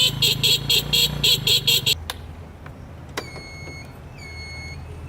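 Rapid electronic beeping, about four to five beeps a second, over a motorcycle engine idling. About two seconds in the beeping stops with a click, and a repeating high electronic chirp pattern, like an alarm or buzzer, sounds over the low idle.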